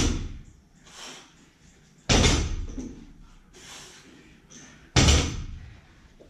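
Loaded 165 lb barbell with bumper plates set down on a wooden floor at the end of each deadlift rep: three heavy thuds about two to three seconds apart.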